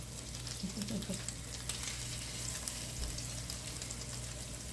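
Chicken meatballs frying and browning in a pan: a steady sizzle with many small crackling pops.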